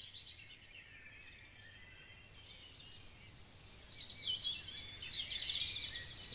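Birds singing: a chorus of rapid high chirps and trills, louder from about four seconds in.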